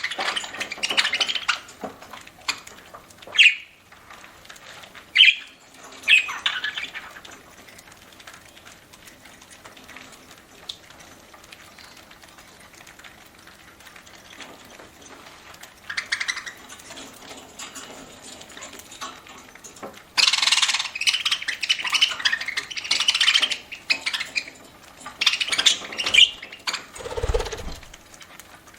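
Pet budgerigars chirping and squawking in bursts, with a quieter stretch in the middle. Near the end there is a short low thud.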